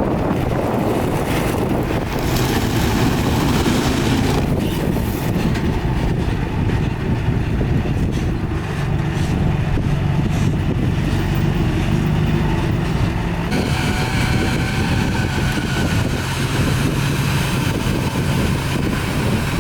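Heavy diesel earthmoving machinery running steadily under load, with a deep engine drone. About 13 seconds in, a higher engine note and whine join in.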